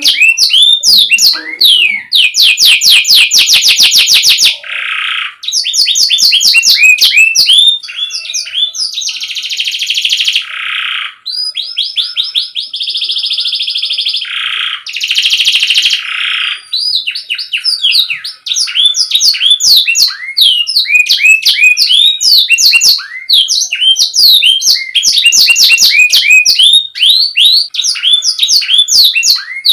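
Canary singing: fast runs of repeated sweeping chirps and trills, broken in the middle by a few buzzy, rolling phrases. It is a clear song of the kind played as a master for tutoring young canaries.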